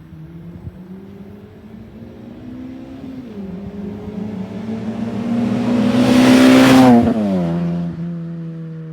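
Performance car with an aftermarket titanium exhaust accelerating hard. The engine's pitch climbs, dips briefly about three seconds in, then climbs again to a loud peak before falling sharply in pitch and level and settling at a steady lower note.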